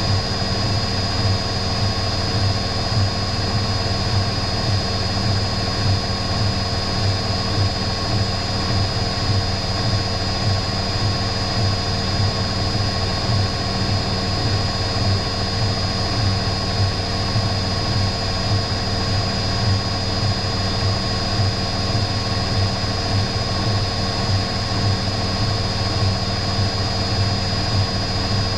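Electrolux EW6S404WU front-loading washing machine running steadily without pause: a low pulsing hum with a thin, steady high whine over it.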